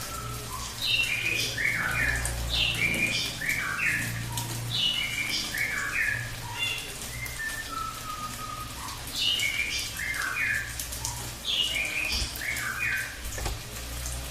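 A cililin singing its rapid burst song: quick whistled notes stepping down in pitch, repeated as phrases about every second or two, with a pause in the middle. A steady low hum and a faint crackle lie underneath.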